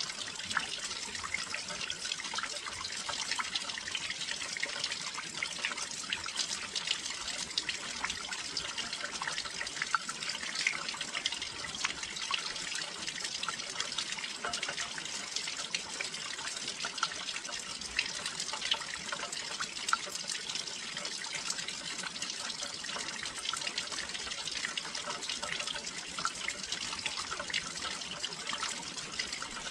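Steady rain falling near a window, a dense, even patter of many small drop hits that never lets up.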